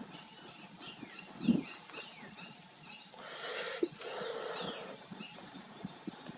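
Birds chirping outdoors in a run of short, falling notes. A low thump comes about a second and a half in, and a rush of noise lasts about a second and a half in the middle.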